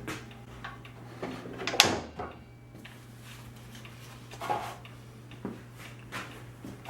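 A few short knocks and clunks of things being handled, the loudest about two seconds in, over a faint steady low hum.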